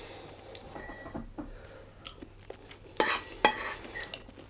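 Cutlery clinking and scraping against a plate, with two sharper clinks about three seconds in.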